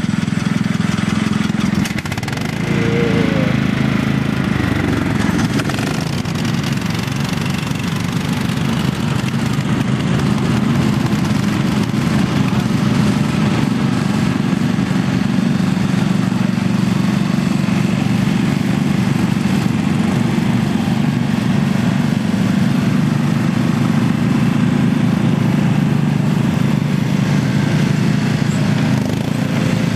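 Lawn mower engine running steadily, a constant low drone.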